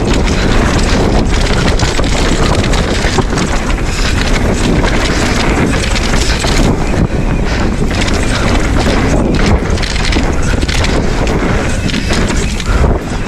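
Wind buffeting the microphone while a Specialized Stumpjumper Evo mountain bike rides the trail at speed, its tyres rolling over dirt and the bike rattling with many short knocks over bumps.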